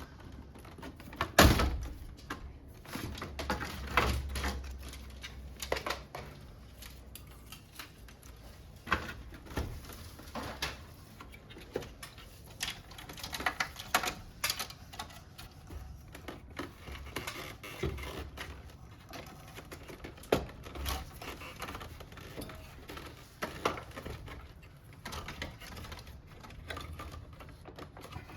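Irregular clicks and knocks as air conditioner parts and tools are handled during disassembly, with one louder knock about a second and a half in.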